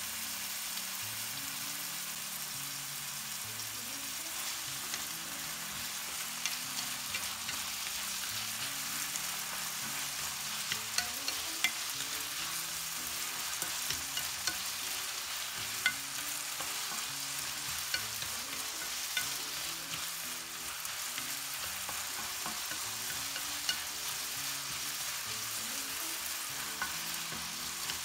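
Food frying in hot oil in a pan: a steady sizzle with scattered sharp pops and crackles.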